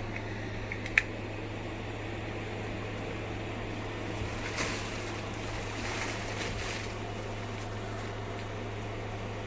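Small blower fan of an airblown Halloween inflatable running with a steady hum. There is a sharp click about a second in, and rustling from about four and a half to seven seconds.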